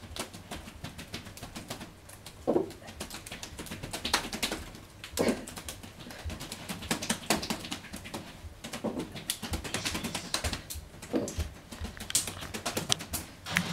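Cats playing with a toy: irregular taps and clicks, with short low coo-like calls every one to three seconds.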